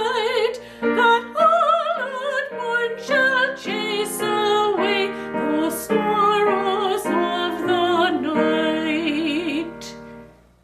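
Classical-style solo singing with strong vibrato over piano accompaniment, fading out near the end.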